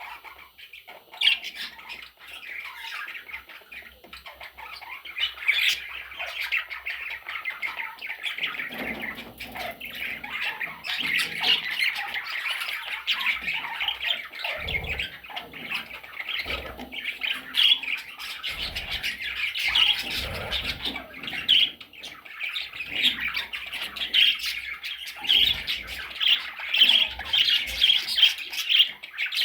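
Budgerigars chattering and squawking continuously, growing busier after about ten seconds, with low bumps and knocks mixed in from about eight seconds on.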